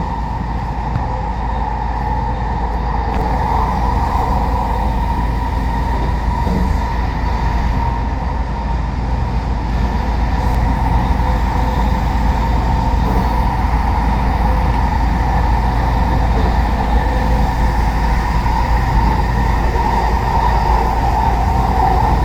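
Inside a moving passenger train: the steady rumble of wheels on rails with a steady hum over it, growing a little louder about halfway through.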